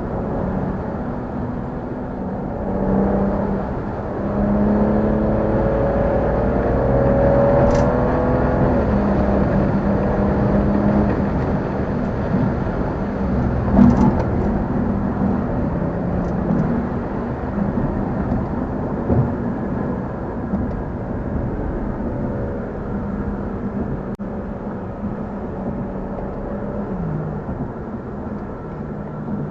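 Car engine pulling under acceleration: its note climbs about three seconds in, eases off, then settles into a steadier drone as the car cruises, with a brief sharp knock about midway.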